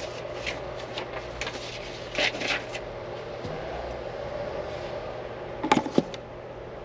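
Paper rustling and handling, with a cluster of sharp knocks just before the end, over a steady hum.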